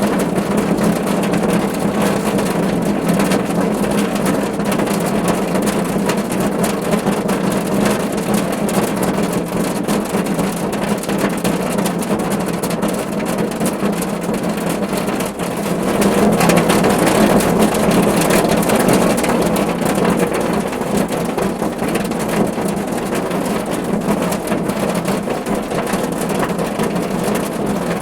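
Steady rain drumming on a car's roof and body, a dense patter of drops, heavier for a few seconds a little past the middle.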